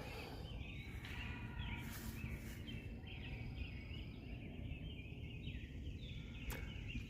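A bird chirping in a quick repeated series over low steady background noise, with one sharp click near the end.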